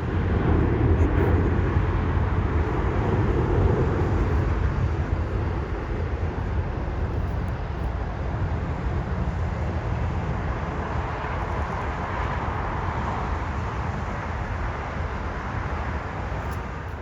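Jet airliner's engines rumbling, gradually fading as the plane moves away.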